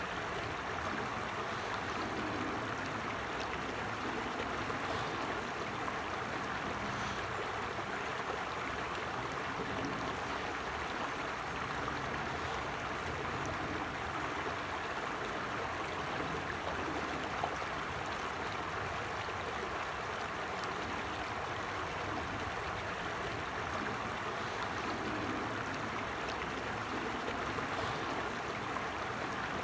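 Forest stream flowing steadily over rocks, a continuous even rush of running water.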